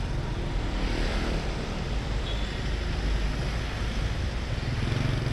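Steady street traffic noise with a heavy rumble of wind buffeting the microphone.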